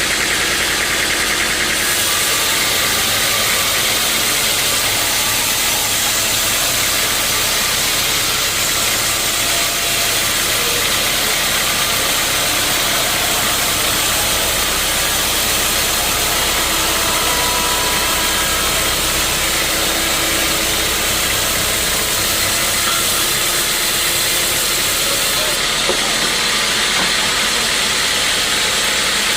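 Sawmill machinery running continuously: a steady engine-driven saw noise with a strong hiss, unchanging throughout.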